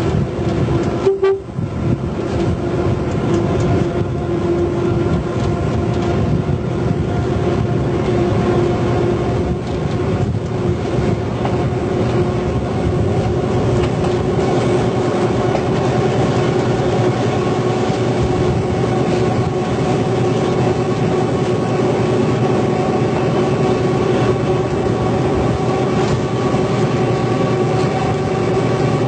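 Train running steadily: an even drone with steady tones over the rolling noise, and a single short click about a second in.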